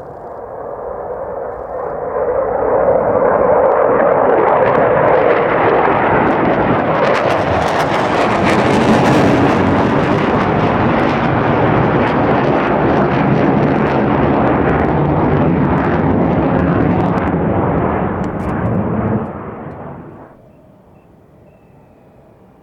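Jet fighter making a low pass. This is an F-4EJ Kai Phantom II with its two J79 turbojets: the roar builds over the first three seconds, stays loud with crackle, then drops off sharply near the end.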